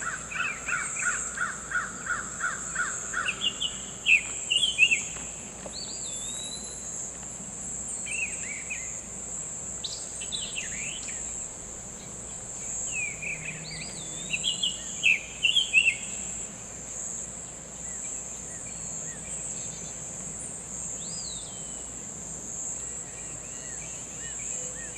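Summer tanager singing: groups of short, sweet whistled phrases that slur up and down, robin-like, opening with a quick run of about three repeated notes a second and coming in several bursts. A steady high-pitched insect drone runs underneath.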